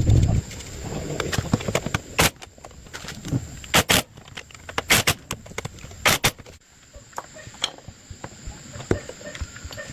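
A low rumble cuts off about half a second in. Then come several sharp metallic clacks and clinks, with smaller ticks between them, as metal parts and tools are handled.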